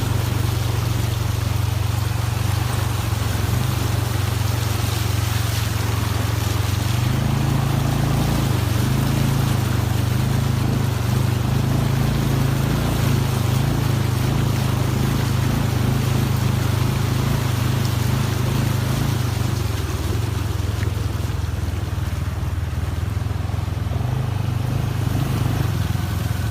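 A vehicle engine running with a steady low drone while driving in the rain, under a constant hiss of water and wet road.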